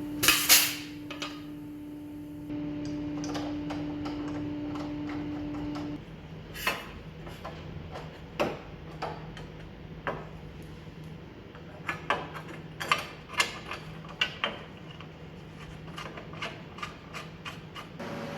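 Irregular sharp metallic taps and knocks of hand work on sheet steel, spaced unevenly with the loudest cluster right at the start. A steady hum runs under the first six seconds.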